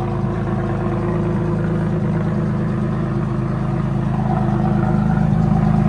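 Ferrari Enzo's V12 with a straight-piped exhaust idling steadily while warming up after a cold start, getting a little louder from about four seconds in.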